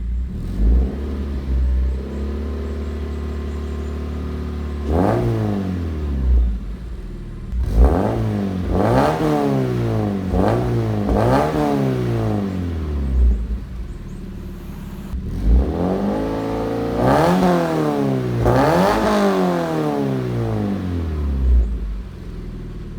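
Toyota 86's 2.0-litre flat-four engine through an aftermarket Tsudo catback exhaust. It idles steadily for about five seconds, then is revved again and again in quick throttle blips, each rising and falling in pitch, with a deep tone that is not raspy.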